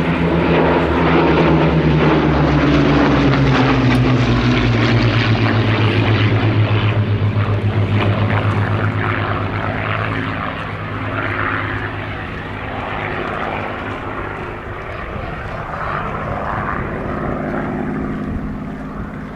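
Rolls-Royce Merlin V12 engine of a WWII propeller fighter flying past, loud at first with its pitch dropping as it goes by, then fading to a softer steady drone as it draws away.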